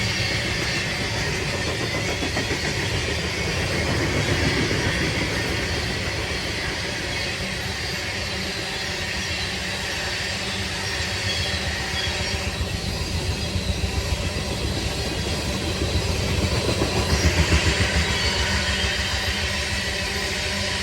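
A train rolling by: a steady rumble of wheels on rail, with a run of rhythmic clacks over rail joints late on.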